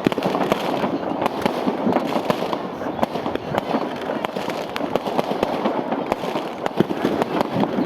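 Fireworks going off without a break: a dense, rapid crackle of many sharp bangs and pops over a continuous rumbling haze.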